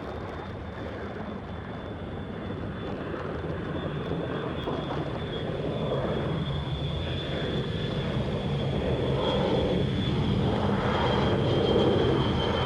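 Jet airliner's engines during a departure from the runway: a steady rush and rumble growing louder throughout, with a high steady engine whine.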